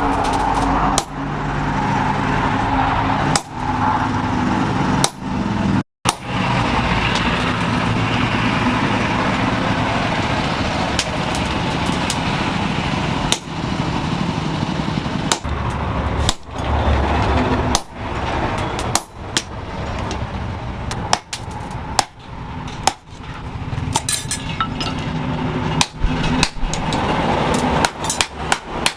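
Hammer blows on metal at irregular intervals over a steady loud mechanical noise, with a brief dropout about six seconds in.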